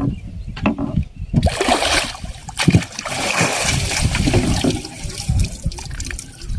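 Water splashing and trickling, with a few short knocks.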